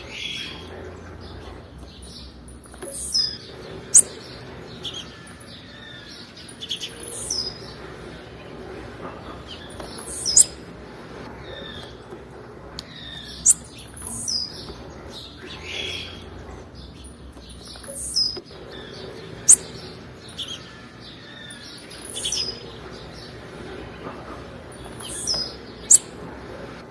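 Female blue-black grassquit (tiziu) calls: short high chirps repeated every few seconds, with an occasional thin, sharp down-slurred note that stands out loudest.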